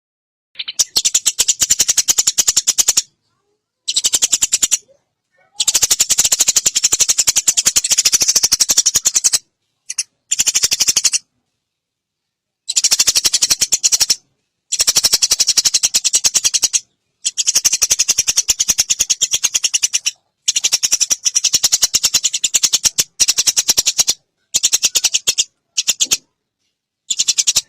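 A songbird's fast, dry rattling trill from a bird-training (masteran) recording. It comes in about a dozen bursts of one to four seconds with abrupt starts and stops and silent gaps between.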